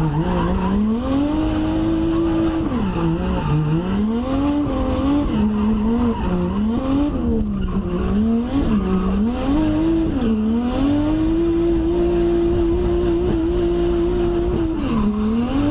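Drift car's engine revving hard, heard from inside the cabin, its pitch swinging up and down about once a second as the car slides, then holding high and steady for the last few seconds before a short dip near the end. Tyres squeal under the slide.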